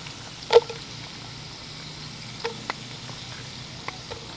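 Onion slices sizzling in hot bacon grease and sausage fat in a cast iron Dutch oven, a steady hiss, with a few short sharp knocks, the loudest about half a second in.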